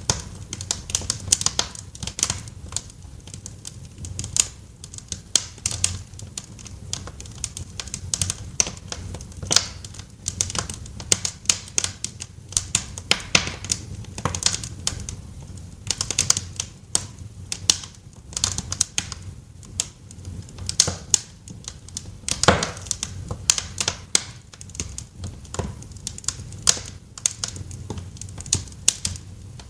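Wood fire in a fireplace crackling: irregular snaps and pops over a low steady rumble of the flames, with one louder pop a little over twenty seconds in.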